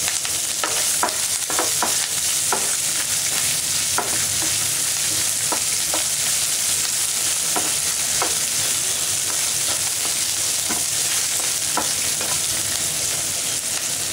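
Chopped ginger, garlic and green chillies sizzling steadily in hot oil in a non-stick frying pan, freshly added for the tempering. A wooden spatula stirs them, clicking against the pan now and then.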